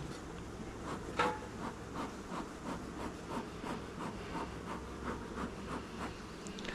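Wooden frames in a horizontal beehive clicking and rubbing as they are worked with, a run of light knocks about two or three a second over the steady hum of honeybees.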